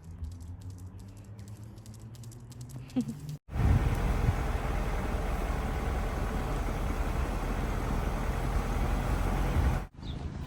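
Motor vehicle engine running: a steady low hum, then after a sudden cut a louder, even engine rumble with a wash of noise, which stops abruptly near the end.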